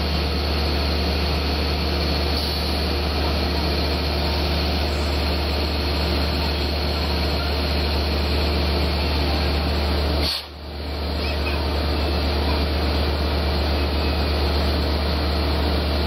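DM30AC diesel locomotive engine idling with a steady low hum while the train stands at the station. The sound briefly drops out about ten seconds in.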